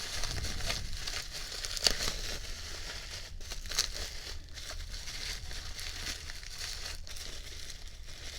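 Packing wrap crinkling and rustling in hands as an item is unwrapped, with a few light ticks.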